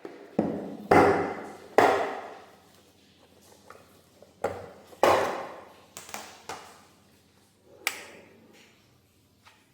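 A series of about nine sharp knocks and clinks, each with a short ringing tail, as hard household objects are handled and set down on a hard surface; the loudest come about a second and two seconds in, with a cluster around six seconds and a last one near the end.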